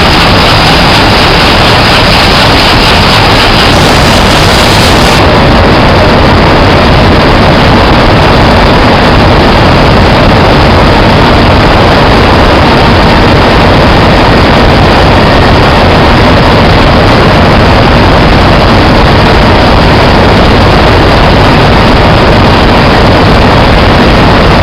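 Loud, steady roar of running machinery in a ship's engine room, unbroken throughout, with the hiss above it dropping slightly about five seconds in.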